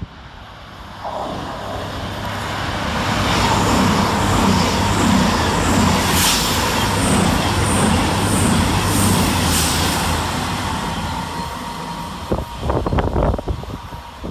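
Two coupled Class 221 Super Voyager diesel-electric units passing through at speed, their underfloor diesel engines humming under the wheel and rail noise, which builds to a peak in the middle and then eases off. A quick run of clunks comes near the end, as wheels cross rail joints or points.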